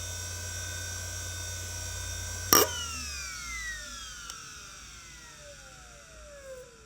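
Quantum Fireball EX 3.2AT IDE hard drive spinning with a steady whine, then a sharp click about two and a half seconds in, after which the spindle whine falls steadily in pitch and fades as the drive spins down after power-off.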